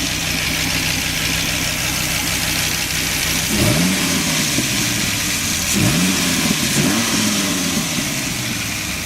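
2003 Dodge Viper SRT-10's 8.3-litre V10 idling, blipped twice by the throttle, about three and a half and nearly six seconds in, each rev climbing quickly and dropping back to idle.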